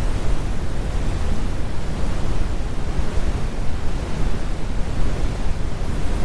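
Synthesised brown noise: a steady, deep rumbling hiss with no change or events, strongest in the low end with the highs rolled off.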